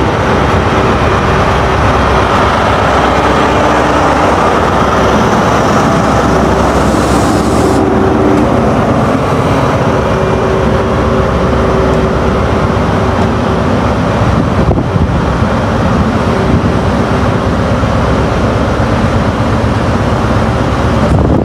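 A train running through the station at the platform, a loud steady rumble with a steady hum over it.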